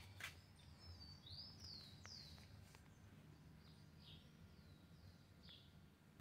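Faint bird chirps: three arched whistled notes about a second in, then a few shorter down-slurred chirps, over a low steady background hum.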